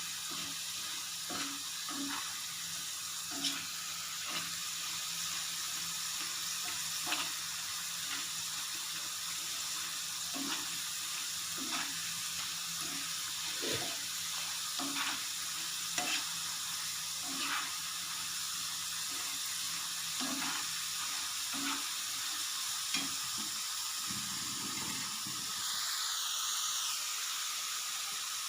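Garadu (yam) pieces frying in hot oil, a steady sizzle, with occasional light knocks of a spoon or ladle stirring in the pan.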